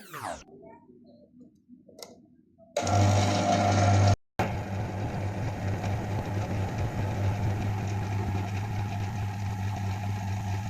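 AC compressor converted to an air compressor, running with a steady electric hum that starts about three seconds in and cuts out briefly a second later. A short falling whoosh comes at the very start.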